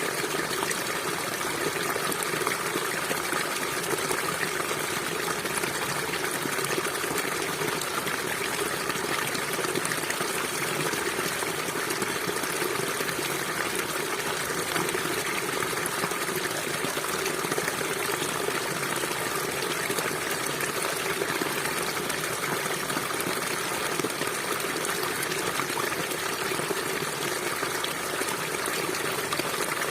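A small stream flowing and trickling steadily, a continuous even rush of running water.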